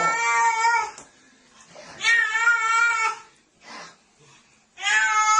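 Domestic cat yowling in distress while being bathed: three long, wavering yowls about every two and a half seconds.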